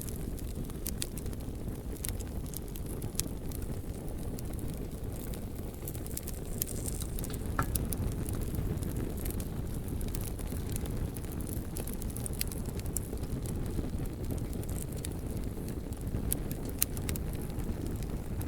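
Bonfire burning: a steady low rumble of flames with scattered sharp crackles and pops from the burning logs, one louder pop a little before halfway.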